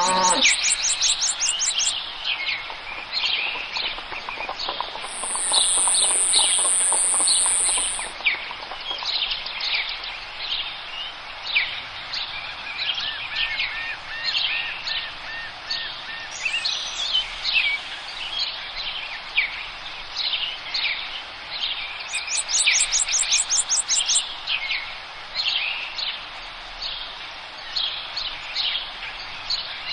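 Forest birdsong: several birds chirping and whistling at once, with rapid high trills near the start and about two-thirds of the way through, and a steady high buzzing trill lasting about three seconds.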